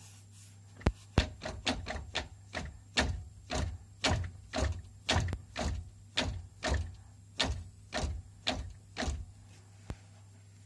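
Worn front driveshaft CV joint on a Mercedes-Benz Vito W639 4x4 clicking over and over as it turns, the sign of a bad CV joint. About twenty knocks, quick at first and slowing to about two a second, stopping about nine seconds in.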